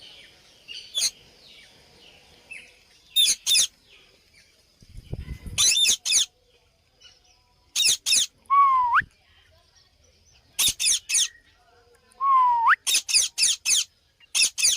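Indian ringneck parakeet giving short, sharp, high calls in quick runs of two to five, with two lower whistles about four seconds apart that dip and then sweep steeply up.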